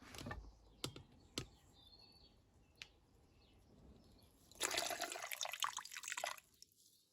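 A few light clicks of small metal parts being handled, then a hiss of spray lasting about two seconds, typical of carburettor cleaner sprayed from an aerosol can into the carburettor parts.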